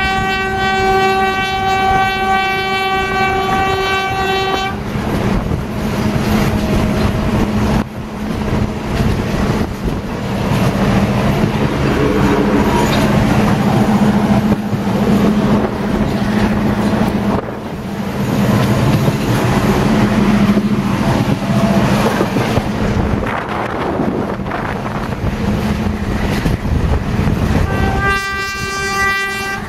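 Diesel passenger train heard from on board. Its horn sounds one steady note for about five seconds, then the train runs along the track with a steady rumble and engine hum, and the horn sounds again near the end.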